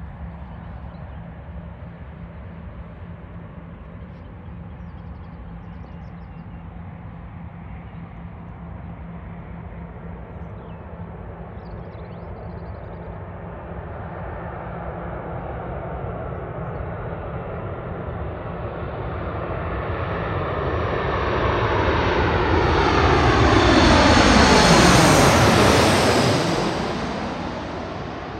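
Jet airliner's engines passing close by: the sound builds slowly, peaks about 24 seconds in with a sweeping whoosh falling in pitch, then begins to fade.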